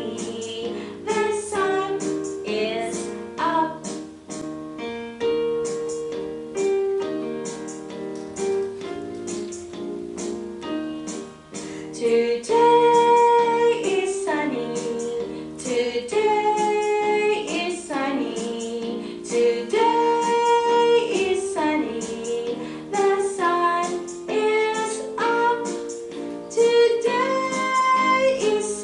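A children's song sung by a woman and children with keyboard accompaniment; the same short line repeats.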